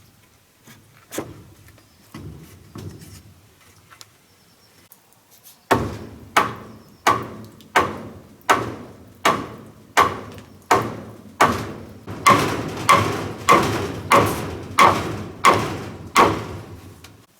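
A tool striking wood in a steady rhythm: about sixteen sharp blows, roughly one every 0.7 seconds, each ringing briefly. They begin about six seconds in, after a few scattered lighter knocks.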